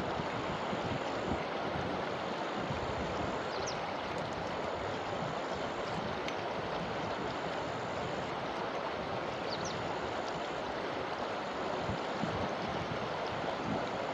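A forest river rushing and splashing steadily over stones. A few faint short high chirps sit above it.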